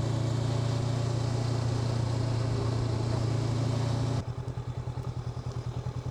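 Honda NX500 parallel-twin engine running steadily under way with wind and road noise. About four seconds in, the noise drops away suddenly and the engine settles into a quieter, evenly pulsing idle as the bike comes off the throttle.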